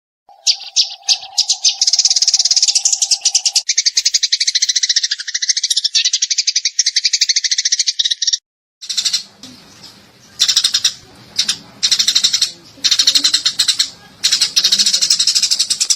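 Eurasian tree sparrows chirping in fast, dense chatter. There is a short break a little past halfway, after which the chirping comes back in separate bursts over a faint low hum.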